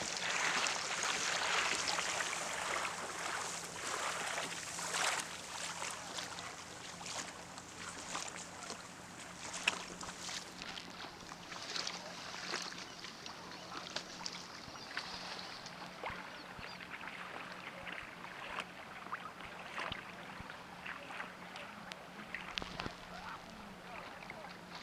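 Water splashing and lapping against the hull of a Hobie i12S inflatable kayak under way, with many small clicks and splashes. It is louder for the first few seconds, then settles to lighter trickling.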